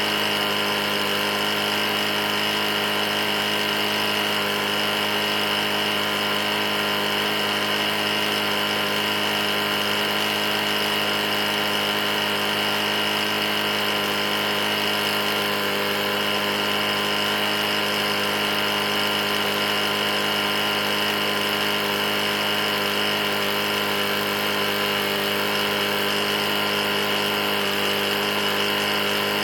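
Briggs & Stratton E450-series lawnmower engine running steadily at a constant speed. The engine has a bad knock and had been run almost out of oil.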